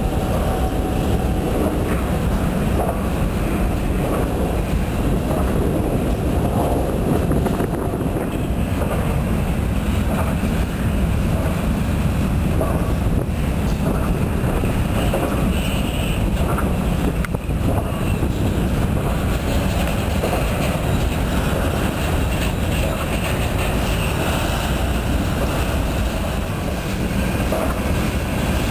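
Freight train's covered hoppers and tank cars rolling past: a steady rumble of steel wheels on rail.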